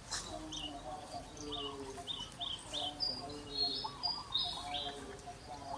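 Animal chirps and calls: a run of short, high chirps repeating every half second or so, over lower wavering calls.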